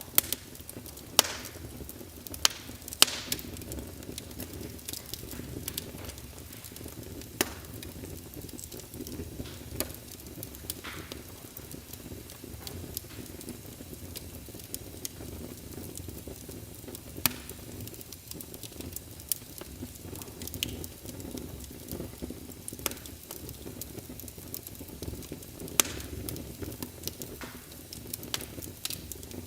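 Wood logs burning in a fireplace: irregular sharp crackles and pops over a steady low rush of flames. The loudest pops come in the first few seconds and once more near the end.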